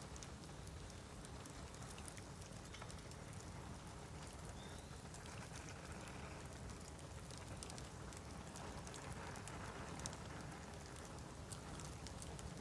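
Bamboo burning on an open fire: scattered sharp crackles and pops over a low steady rush.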